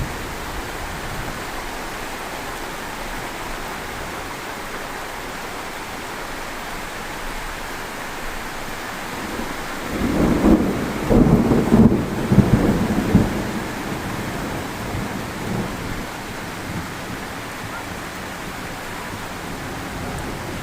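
Heavy rain falling steadily, with a rumble of thunder rolling in about halfway through and lasting a few seconds as the loudest sound.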